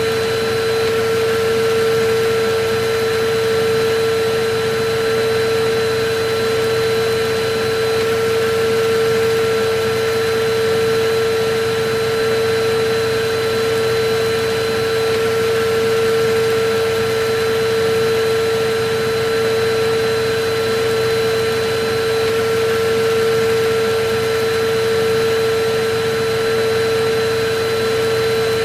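Electric vacuum cleaner running steadily: an even rushing hiss with a constant mid-pitched whine, unchanging throughout.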